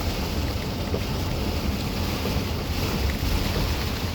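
Heavy thunderstorm rain pouring down in a steady hiss, with wind buffeting the microphone as a constant low rumble.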